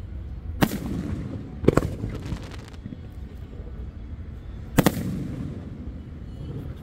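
Aerial firework shells bursting overhead: three sharp booms, about half a second in, another about a second later and a third near five seconds in, each followed by a rolling echo.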